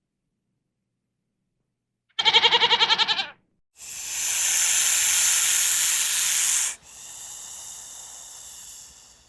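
A goat bleats once, a short quavering call, about two seconds in. Right after it comes a loud hiss lasting about three seconds, which drops to a softer hiss and fades out.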